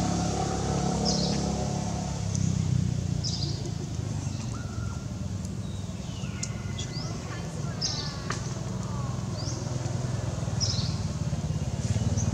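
A bird giving a short high chirp about once a second, over a steady low drone; a few whistled calls come in around the middle.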